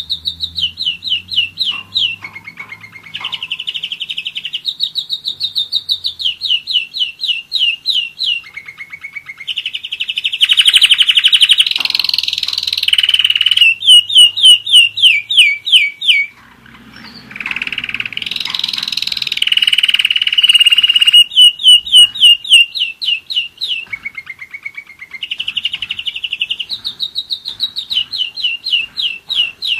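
German roller-split canary singing: a continuous song of fast trilled rolls, each phrase a run of quick repeated notes that shifts pitch every second or two, with a brief pause about halfway through.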